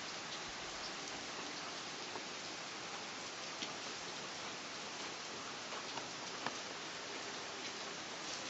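Steady rain falling, an even hiss of rain on surfaces with a few sharper drop ticks now and then.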